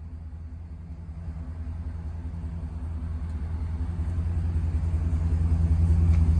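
Ford E350's 7.3-litre V8 gas engine idling, a steady low rumble that grows louder throughout.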